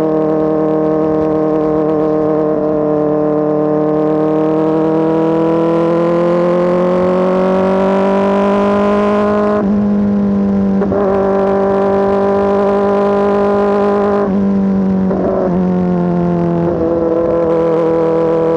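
Kawasaki ZX-4RR's inline-four engine running through an SC Project S1 exhaust, loud and steady. The engine note climbs slowly, then drops sharply about ten seconds in and again near the end.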